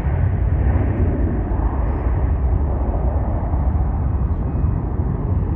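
Jet airliner's engines at take-off power, a heavy steady rumble with a rushing roar above it, slowly fading as the aircraft climbs away.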